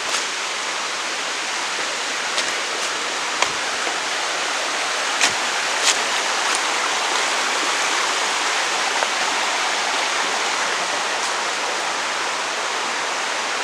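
Waterfall: a steady rush of falling water, with a few short sharp clicks in the first six seconds.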